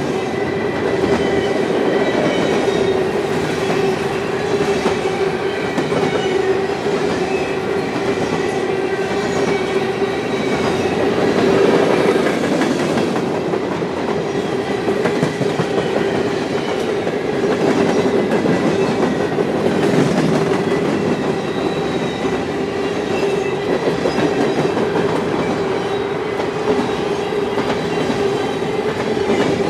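Canadian National freight train's cars rolling past, the wheels clicking rhythmically over the rail joints, with a steady ringing tone from the wheels on the rails.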